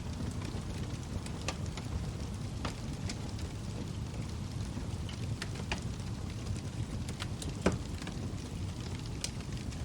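Log fire burning with a steady low rumble and scattered sharp crackles and pops from the burning wood, the loudest pop about three quarters of the way through.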